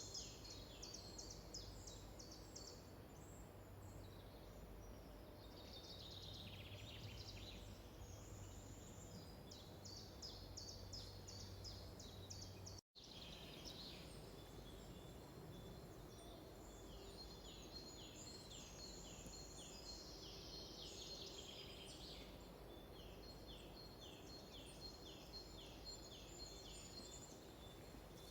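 Faint songbirds singing in a forest: quick series of high, falling chirps repeated over and over, over a low background rumble. The sound cuts out for an instant about 13 seconds in.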